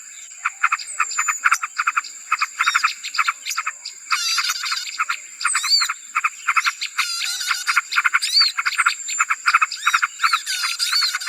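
Bird-lure recording of a noisy crowd of small birds: dense, rapid chipping chatter with short rising and falling whistles over it, and a thin steady high tone underneath.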